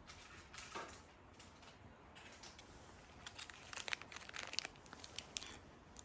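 Crinkling and crackling, like thin packaging being handled, with a denser run of sharp crackles in the second half.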